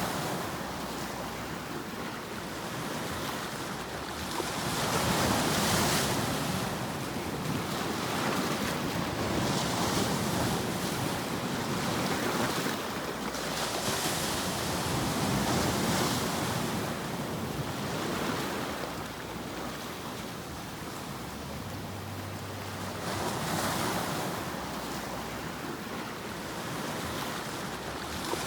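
Sleep-aid noise track of ocean surf: a continuous rushing noise that swells and fades about every four to five seconds as waves break and wash back.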